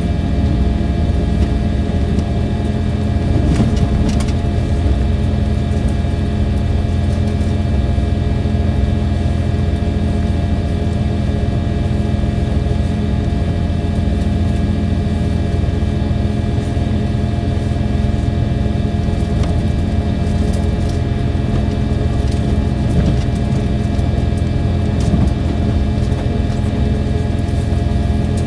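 Diesel engine of a KiHa 283 series diesel multiple unit running at a steady note, heard from inside the passenger car. The sound is a constant hum made of several fixed tones.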